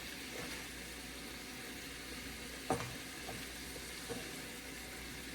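Mushrooms, zucchini and mixed vegetables sizzling steadily in a hot pan, with a few light knocks of a stirring utensil against the pan; the loudest knock comes about two and a half seconds in.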